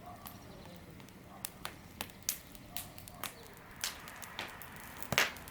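Wood fire crackling, with irregular sharp pops and snaps, the loudest about five seconds in.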